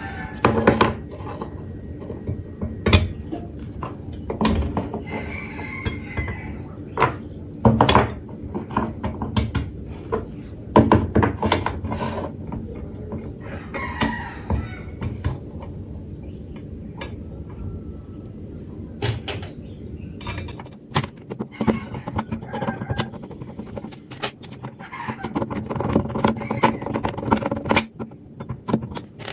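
Workshop handling sounds: a scattered series of sharp knocks and taps from tools and materials being worked, over a steady low hum.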